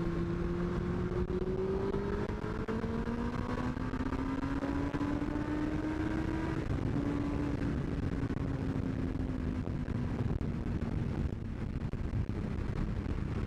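Yamaha FZ1's inline-four engine under way, its note climbing steadily for several seconds, breaking briefly about halfway, then slowly falling, over steady wind and road rush.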